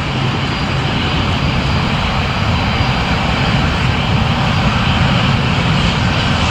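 Airliner's engines running loud and steady close by, a deep rumble with a rushing hiss, growing slightly louder.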